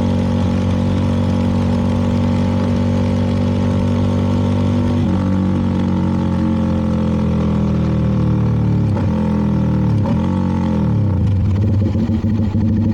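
CFMoto 300NK single-cylinder engine running steadily under way, then slowing so its pitch falls gradually. Two quick downshifts dip and lift the note near the end, and it settles at a lower pitch.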